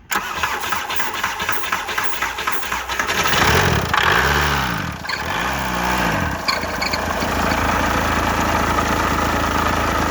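Chrysler van engine cranking on the starter with ether sprayed into the intake, catching about three seconds in, revved up and down twice, then settling into a steady idle.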